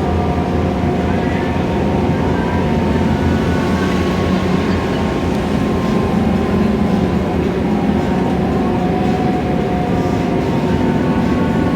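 Scania K320iA CNG city bus under way, heard from inside the cabin: a steady engine and drivetrain drone with road noise, and a faint whine that slowly drifts in pitch.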